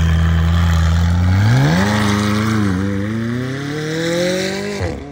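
Modified McLaren 600LT's twin-turbo V8 pulling away. It runs at a steady low note for about a second and a half, then the revs climb, dip briefly, and climb again, dropping sharply near the end as the car moves off and grows fainter.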